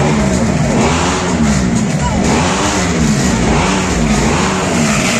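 Motorcycle engine revved again and again, its pitch rising and falling in quick repeated swells under a second apart.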